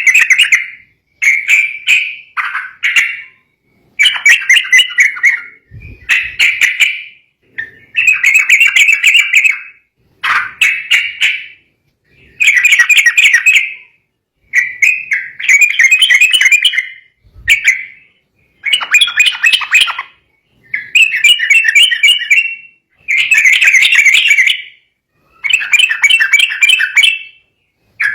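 Yellow-vented bulbul (trucukan) singing: loud, bubbly chattering phrases of one to two seconds each, repeated about every two seconds with short pauses between. This is the fired-up song used to set off rival birds.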